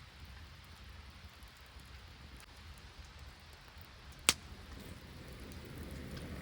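Steady patter of rain and sleet, with one sharp click about four seconds in.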